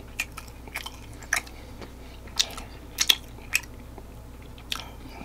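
Close-miked chewing of fried chicken wing: wet mouth smacks and short clicks at an irregular pace, about eight in a few seconds.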